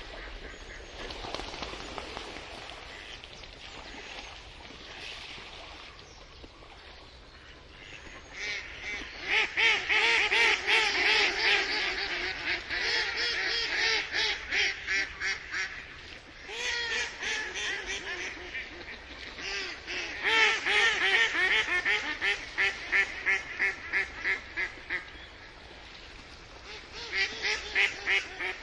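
Ducks quacking in long, rapid runs of calls, about five a second, after a quieter opening stretch. The calling starts about eight seconds in, breaks briefly twice and picks up again near the end.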